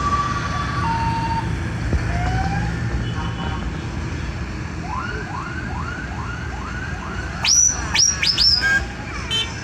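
Tractor engines running with a steady low rumble while horns and siren-like tones sound over them: two alternating notes at the start, a run of about six rising whoops from about five seconds in, then four sharp, high rising whistles near the end.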